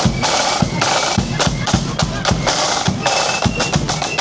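Marching band playing: rapid snare drum beats and rolls over heavy bass drum strikes, with a thin, high melody line held above the drums.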